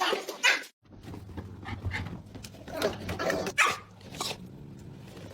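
A dog vocalizing in short repeated calls.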